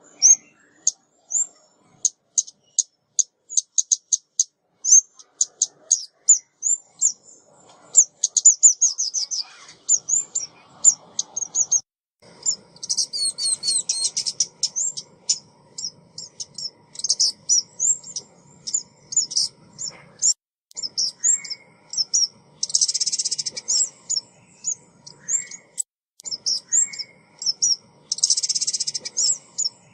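Female ốc mít bird calling as a trapper's lure recording: rapid high-pitched chirps and short trills, with a few harsh buzzy calls, twice near the end.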